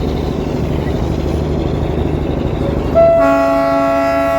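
Darjeeling Himalayan Railway toy train running with a steady rumble, then its locomotive horn sounds one long blast about three seconds in.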